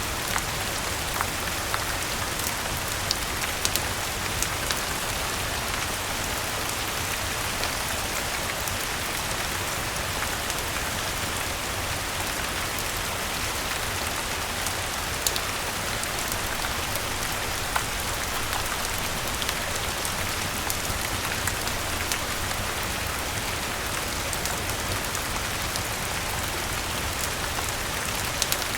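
Steady rain falling on leaves, with a wood fire crackling in scattered sharp pops throughout.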